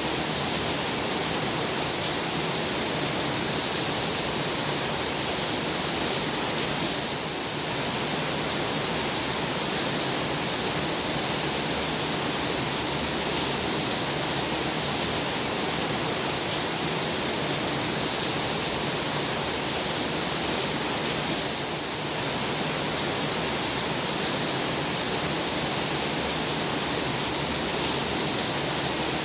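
Heavy rain falling steadily, a dense even hiss with no separate drops standing out, dipping slightly twice for a moment.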